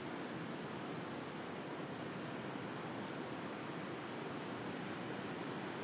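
Steady wash of sea waves, with a few faint wood-fire crackles now and then.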